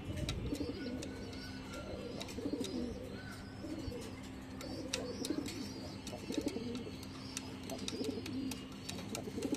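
Domestic pigeons cooing over and over, low warbling coos every second or so, with scattered light clicks.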